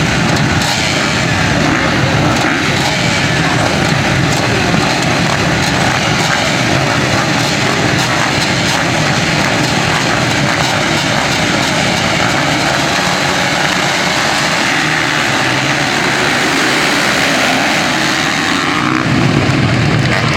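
A pack of motocross motorcycles racing at high throttle, the many engines blending into one dense, steady buzz. The low rumble grows louder near the end as the bikes come closer.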